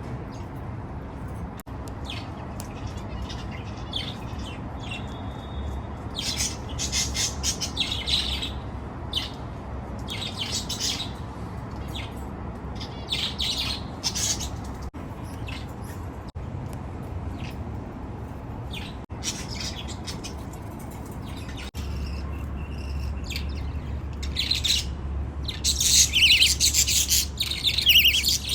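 Baby budgerigars chirping in scattered bursts, busiest and loudest near the end.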